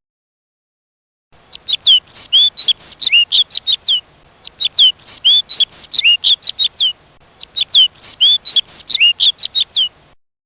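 A songbird singing a fast phrase of short, sweeping chirps. The same phrase is heard three times with brief pauses between.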